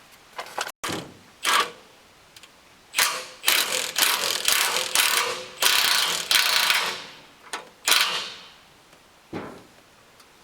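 Hand ratchet wrench clicking in a series of short, irregular strokes, loosening bolts to take apart a crane's hydraulic cylinder.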